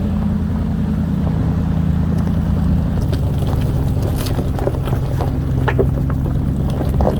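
Vehicle engine droning steadily while driving, its pitch shifting about three seconds in, with scattered clicks and knocks over the drone.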